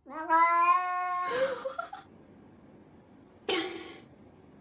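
A cat gives one long, drawn-out meow lasting about a second, then a short, sudden second cry about three and a half seconds in.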